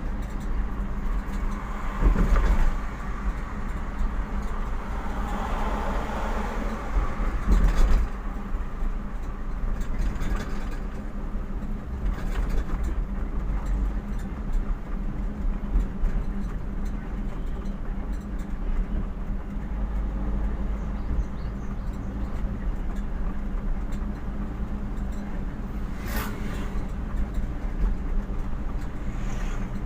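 Steady engine and road noise of a vehicle being driven, heard from inside the cab, with a low even hum. It is briefly louder about two seconds in and again near eight seconds, and there is a short sharp sound near the end.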